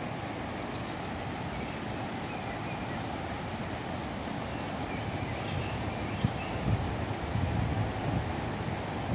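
Steady rush of a waterfall and fast-flowing river water. In the second half, low thumps and a sharp knock a little after six seconds in, from wind or handling on the microphone.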